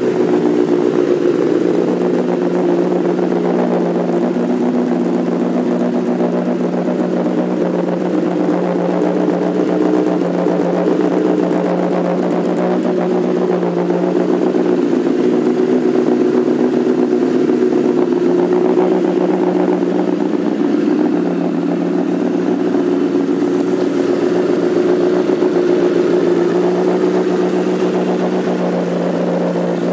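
Honda CBR1000RR's inline-four engine, fitted with an M4 slip-on exhaust, idling steadily.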